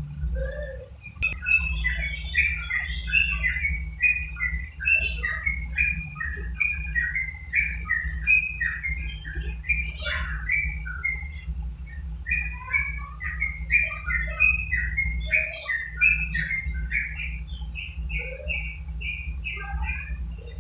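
A yellow-vented bulbul (trucuk) singing in a rapid, almost unbroken run of short chirping notes, over a steady low hum.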